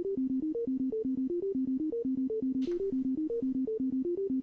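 Waldorf Iridium synthesizer playing a looping step-sequencer pattern from an init patch: short notes, about eight a second, mostly on one low note, with a few steps jumping up to higher pitches.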